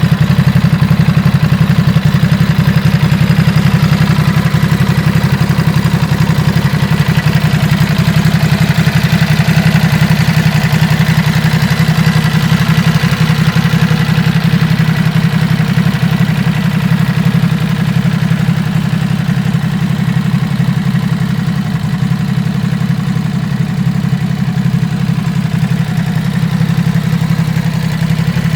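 Ducati Supersport S 950's 937 cc Testastretta L-twin engine idling steadily.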